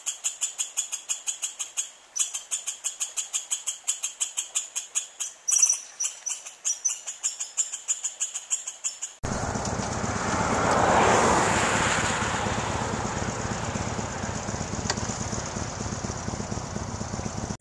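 A high, evenly repeated chirping, about five chirps a second, from an insect or bird. About nine seconds in it cuts off suddenly to a steady rushing of vehicle and wind noise, which swells briefly soon after.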